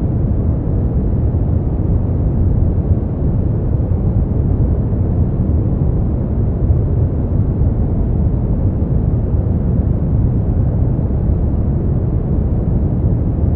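Brown noise: a steady, deep hiss, strongest in the bass and fading away toward the treble, with no change.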